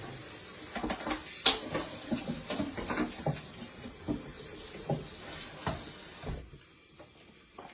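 Sausage sizzling and crackling in a covered frying pan, over a steady hiss that cuts off suddenly about six seconds in.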